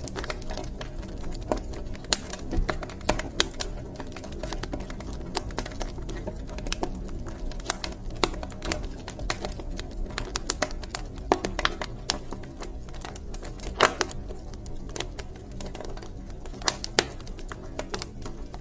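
Wood fire crackling in a fireplace: irregular sharp pops and snaps, several a second with a few louder ones, over a low steady rumble of the flames.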